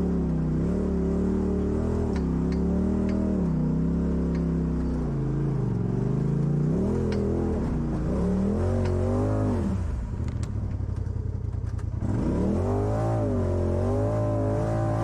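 Off-road vehicle engine revving up and down under load as it works over rough trail, dropping to a slow low throb for about two seconds near the middle before revving up again. A few faint sharp clicks sound over it.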